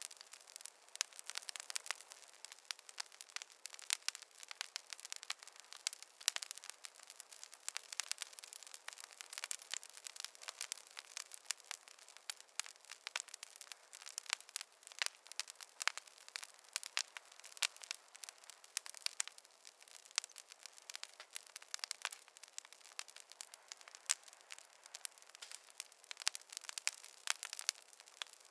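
Wood fire crackling: a dense, irregular run of sharp pops and snaps from burning logs over a faint hiss.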